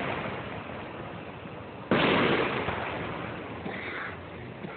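Fireworks shell bursting overhead with a sharp boom about two seconds in, its rumble and echo fading over the next second or two. At the start, the fading tail of an earlier burst is heard.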